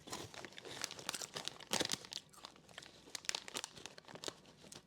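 A potato chip bag crinkling as it is handled and rummaged in, a dense run of crackles that is loudest a little under two seconds in.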